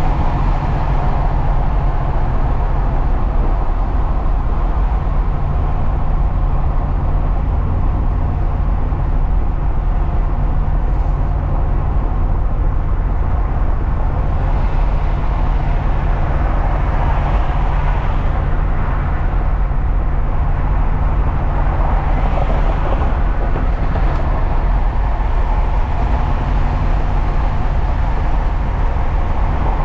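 Truck driving at a steady pace: engine running with a constant low hum under steady road and tyre noise, which swells briefly twice past the middle.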